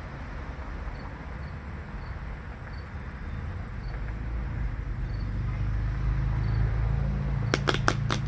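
Low steady rumble in the background, growing louder, then a quick run of crisp clicks near the end as oracle cards are shuffled.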